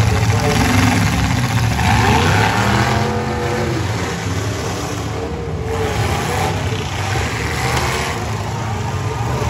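Several demolition derby cars' engines running and revving hard together, their pitch rising and falling.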